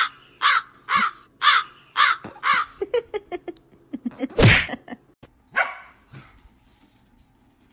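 An animal calling: a run of about six short, harsh calls at roughly two a second, then a few faint clicks and two more calls, the first of them the loudest.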